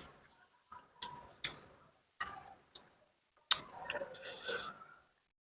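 Close-up eating sounds: a spoon clicking and tapping against a bowl of chicken porridge about half a dozen times, then a longer stretch of slurping and chewing near the end.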